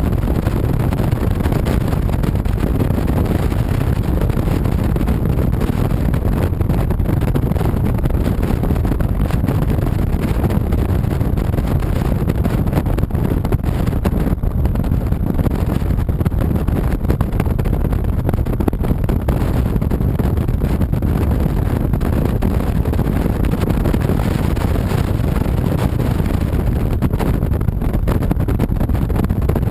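Honda VTX 1300C V-twin cruiser motorcycle being ridden at a steady pace: engine and road noise under heavy wind rush on the microphone, a steady low-heavy noise with no changes.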